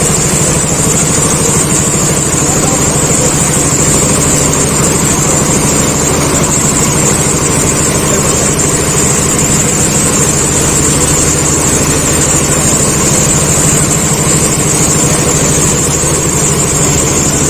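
An engine running steadily at constant speed, with a steady high hiss over it.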